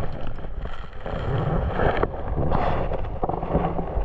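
Wind noise on the microphone: an uneven rushing with a low rumble.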